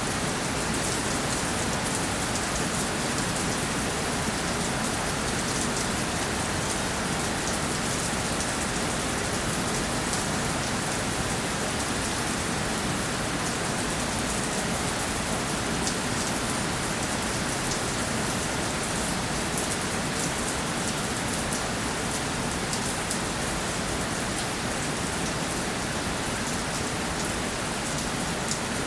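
Steady rainfall, an even hiss of rain with fine patter of drops on a surface, holding constant throughout.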